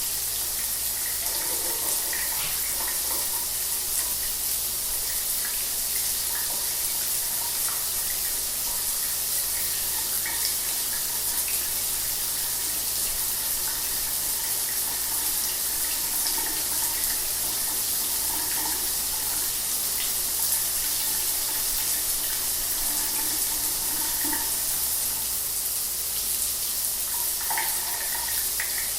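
Shower water running steadily, a continuous hiss of spray falling, with small splashes here and there.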